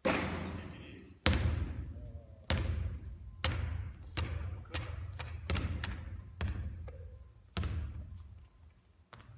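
Basketball bouncing and landing on a hard court floor: about a dozen sharp impacts at uneven spacing, some close together, each dying away with a long echo.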